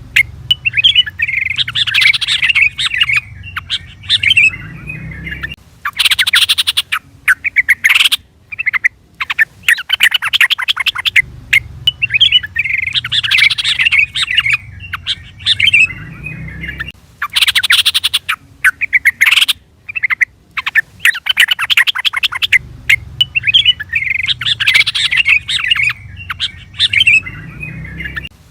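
Yellow-vented bulbul (trucukan) calling: loud runs of rapid chattering notes alternating with bubbly warbled song phrases, the same sequence repeating about every eleven seconds as a looped lure call.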